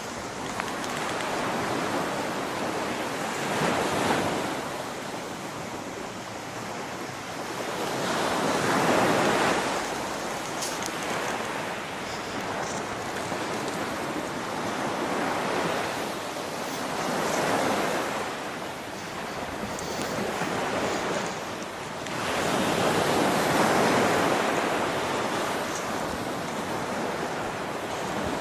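Rushing water noise, swelling and easing every few seconds, with wind blowing on the microphone.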